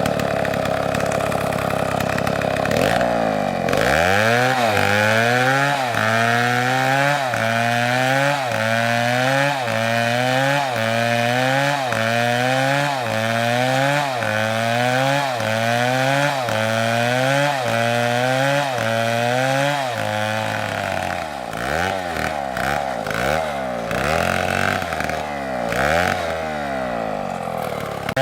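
STIHL chainsaw running under load while cutting wood. It is steady at first, then its engine pitch rises and falls about once a second for most of the stretch, and it turns uneven near the end.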